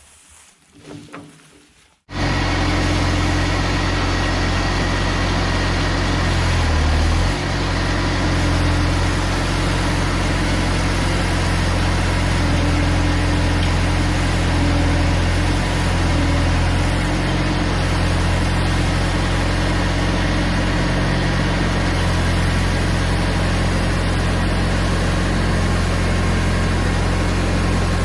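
Bobcat T250 skid-steer's diesel engine running steady and loud while pulling a large fallen tree out by its root ball on a chain. It cuts in abruptly about two seconds in after near quiet, and its pitch dips briefly about seven seconds in.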